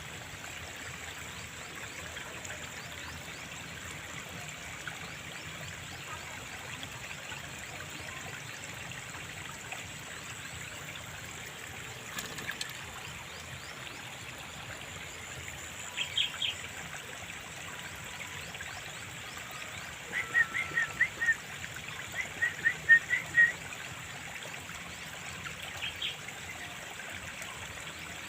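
Sooty-headed bulbul (cangkurileung) calling in a few short phrases of quick, bubbly notes over the steady trickle of running water. The bird's loudest bursts of notes come a little past the middle of the clip.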